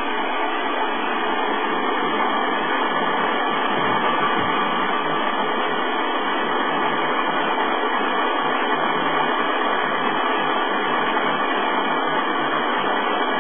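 Steady, even rushing noise with no change in level: a car engine idling, heard in the open engine compartment.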